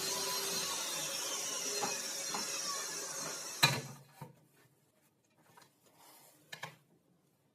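A power tool's electric motor winding down after being switched off, its pitch falling, followed by a sharp knock as something is put down about three and a half seconds in. A few faint clicks and rubs of handling come after.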